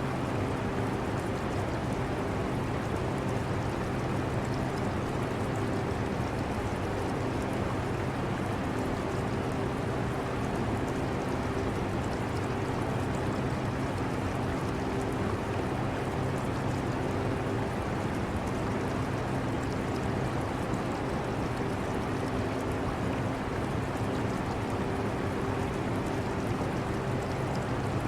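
A portable air conditioner running with a steady hum and rush of air, mixed with the running water of an aquarium.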